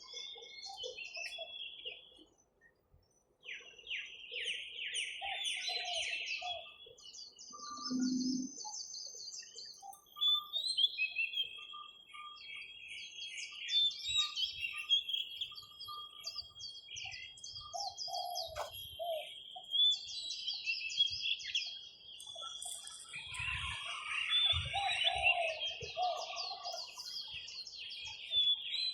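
Several birds chirping and trilling in overlapping calls, over a steady, thin, high note. A few low thuds come near the end.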